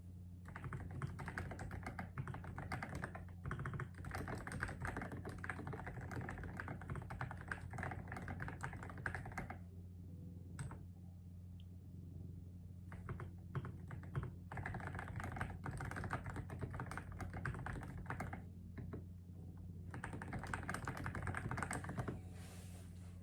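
Rapid typing on a keyboard in runs of several seconds, with short pauses of scattered keystrokes between them, over a steady low hum.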